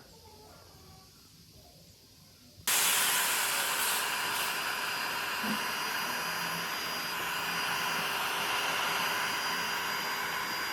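A power tool switches on abruptly about two and a half seconds in and runs steadily: a loud, even hiss with a faint high whine.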